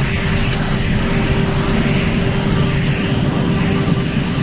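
Loud, steady engine-like rumble with a constant hum and a faint high whine over it.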